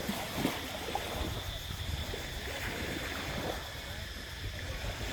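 Steady outdoor background noise with faint, indistinct voices in it.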